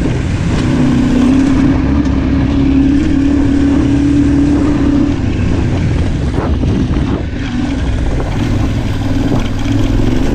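Yamaha Ténéré 700 parallel-twin engine running steadily under load while riding a rally stage, with road and wind noise. The engine note eases off about five seconds in and picks back up near the end.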